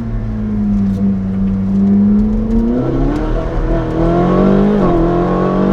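Ferrari 458 Speciale's naturally aspirated V8 through a Novitec sport exhaust in race mode, accelerating hard: the engine note climbs and snaps down with an upshift about three seconds in and again about five seconds in, then climbs again.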